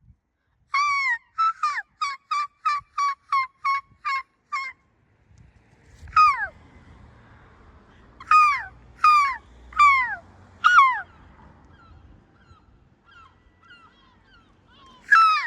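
Seagulls calling: a long downward call, then a fast run of about ten short yelping notes. After a pause come several single calls that slide downward in pitch, spaced under a second apart, with a faint low rumble beneath them.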